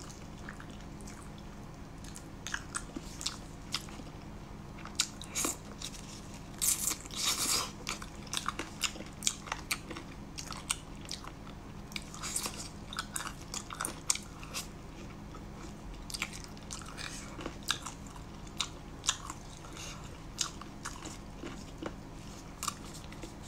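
Close-up chewing and biting of spicy braised chicken feet: many short crunches and wet clicks of skin, cartilage and small bones, coming in irregular clusters.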